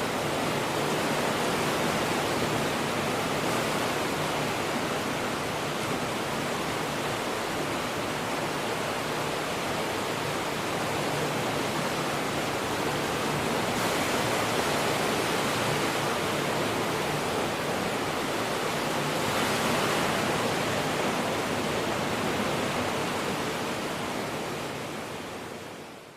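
Ocean surf washing in a continuous rushing noise, swelling gently now and then, then fading out over the last couple of seconds.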